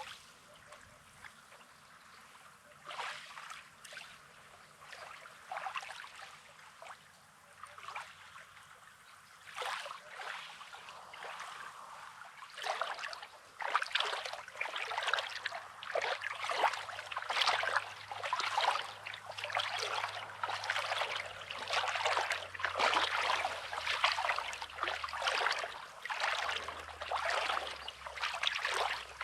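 Small waves lapping and washing on a rocky, sandy shore, with irregular splashes that come thicker and louder about halfway through.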